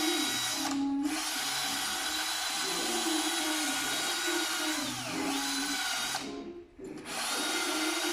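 A power tool whirring in two long runs, stopping about six seconds in and starting again moments later; its pitch dips briefly shortly before it stops.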